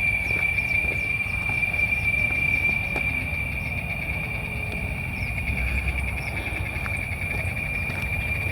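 Cicadas buzzing in one continuous high, steady drone, with a low rumbling noise underneath.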